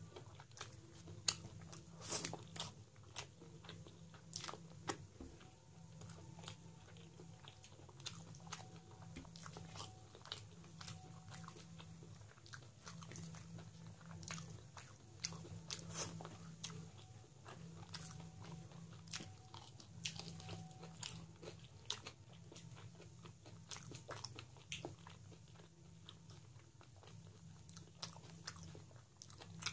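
Close-up chewing and biting of a person eating rice polao and mutton curry by hand, with frequent sharp wet clicks of the mouth scattered throughout. A steady low hum runs underneath.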